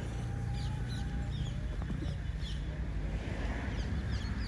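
Birds chirping, a string of short, quick falling notes repeated many times over a steady low rumble.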